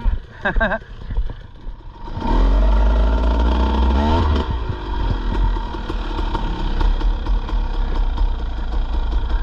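Dirt bike engine opening up about two seconds in, revving with its pitch rising and falling as it accelerates, then running on under load.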